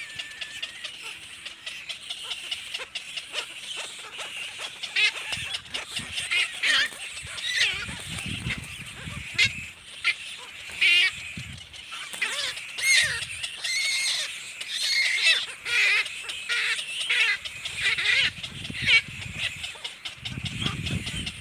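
Baby blackbird calling over and over in short, harsh, wavering calls that come thicker from about five seconds in, with a low rumble twice along the way.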